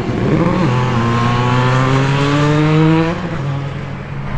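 The twin-rotor rotary engine of a Crighton rotary motorcycle revving. Its pitch jumps about half a second in, then climbs slowly and steadily for about two and a half seconds before the engine note eases off near the end.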